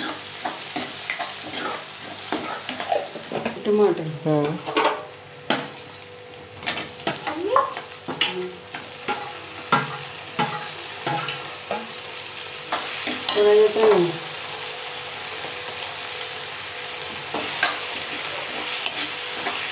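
Chopped onion masala sizzling in hot oil in a steel kadhai, a steel spoon scraping and clinking against the pan as it is stirred. About halfway through, chopped tomatoes go in and the stirring continues; the sizzle turns more even near the end.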